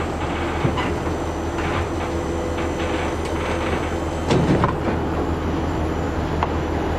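A vehicle engine running with a steady low drone, with scattered clunks and rattles and a louder rattling clatter about four seconds in.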